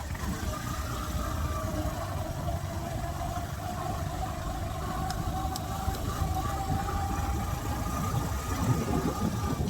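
Motorcycle engine running at a steady pitch, with a constant low rumble underneath.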